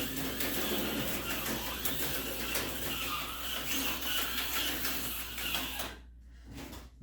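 HO-scale slot car running on plastic track: the small electric motor whirring under the clatter of wheels and pickup shoes on the rails. It stops abruptly about six seconds in.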